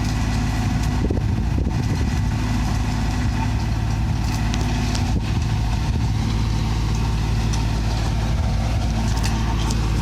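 A large engine running steadily at constant speed, giving an even low drone with no revving.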